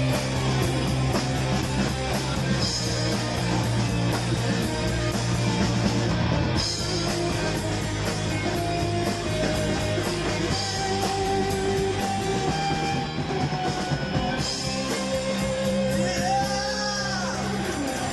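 Live rock band playing an instrumental passage: electric guitar notes held and bent over bass and drums, with cymbals ticking steadily.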